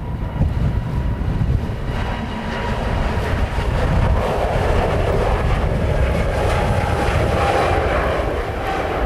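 Jet engines of a departing Airbus A320, building up over a few seconds and then running strongly, with a faint whine. Strong wind rumbles on the microphone underneath.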